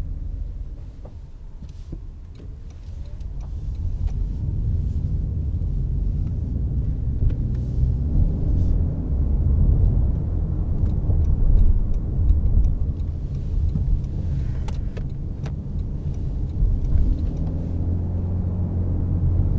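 Toyota C-HR 1.8 hybrid crossover on the move: a low, steady rumble of road and drivetrain noise. It drops quieter for a couple of seconds soon after the start, then builds up again, with a few faint ticks.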